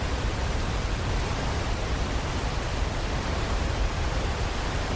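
Steady rush of a 60-metre waterfall, an even wash of noise with a heavy low rumble underneath.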